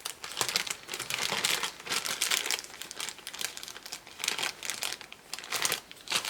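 Plastic packaging crinkling and rustling in repeated bursts, as a laptop memory module is handled out of its wrapping.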